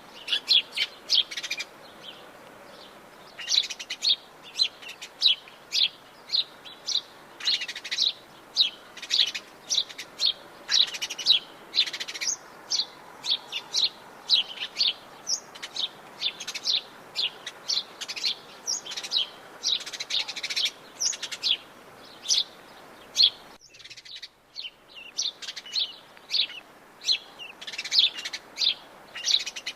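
Many forest birds of the Brazilian Atlantic Forest chirping in quick, overlapping short calls over a faint steady background hiss.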